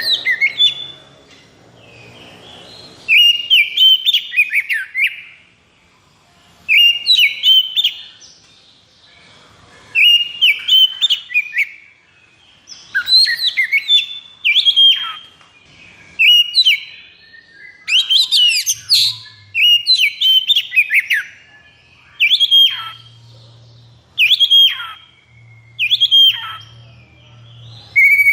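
Oriental magpie-robin singing its agitated 'konslet' song: loud bursts of rapid whistled and harsh chattering notes, each a second or two long, repeated every few seconds with short pauses between, the song of a bird in high excitement.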